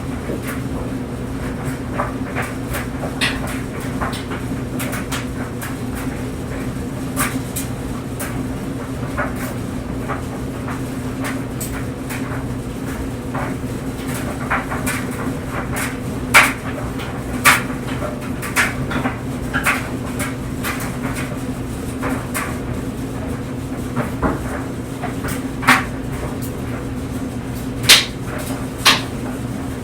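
Clothes dryer running with a steady low hum as clothes tumble in the drum, with irregular knocks and clicks as they fall, a few sharper ones about halfway through and near the end.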